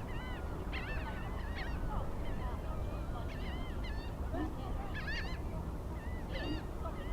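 Birds giving short, arching honking calls over and over in clusters, several at once, over a steady low rumble.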